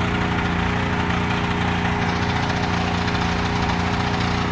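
Small petrol engine running at a steady speed with the choke left on, which the crew take to be why it isn't running right.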